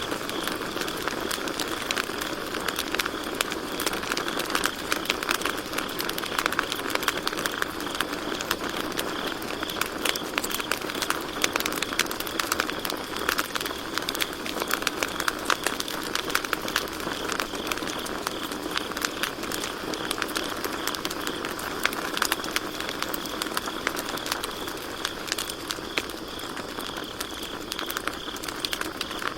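Campfire crackling and popping with constant irregular snaps, over a steady chorus of crickets chirping.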